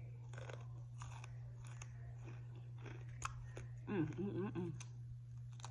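Close-up crunchy chewing of extra crispy fried chicken, then a bite into a pickle spear, with many small wet crunches and clicks. A brief hummed "mmm" comes about four seconds in, over a steady low hum.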